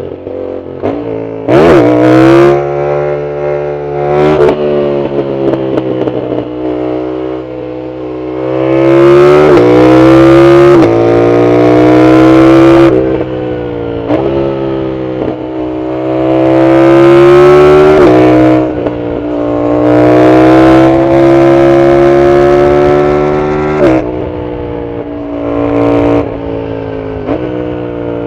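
Yamaha MT-07's parallel-twin engine through a loud full aftermarket exhaust, pulling hard through the gears several times: the pitch climbs and drops at each shift, with steadier part-throttle running in between.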